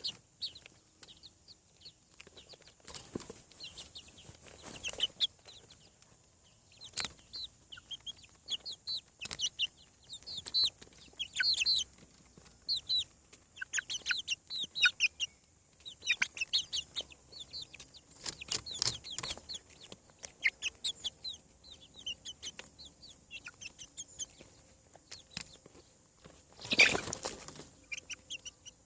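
Young chickens (chicks) peeping continually in short, high chirps, with a few brief rustling bursts, the loudest near the end.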